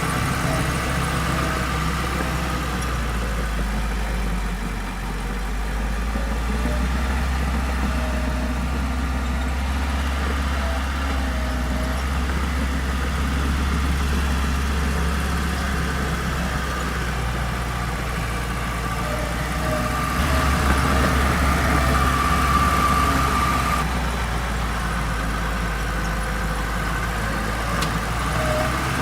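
Diesel engine of heavy earthmoving equipment running steadily. It grows louder for a few seconds about two-thirds of the way through.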